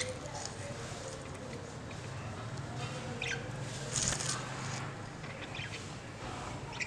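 Birds flapping their wings, with a brief flurry about four seconds in and a few short chirps over a steady low hum.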